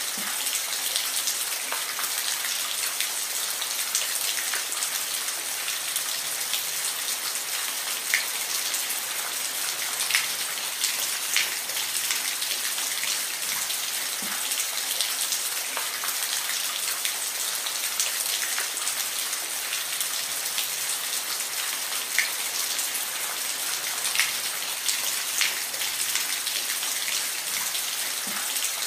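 Steady rain falling, an even hiss with scattered sharper drops striking a surface close by.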